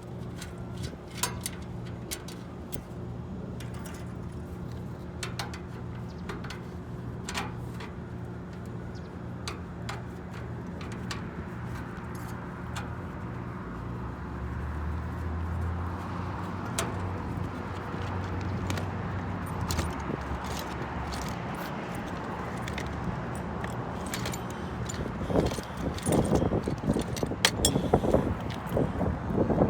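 Scattered light metallic clicks and clinks of hand tools and parts over a steady electrical hum. In the last few seconds louder rough buffeting noise comes in.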